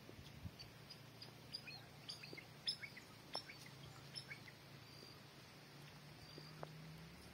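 Small birds calling faintly: many short, quick high chirps, busiest in the middle, with a few brief high whistles. A faint steady low hum runs underneath.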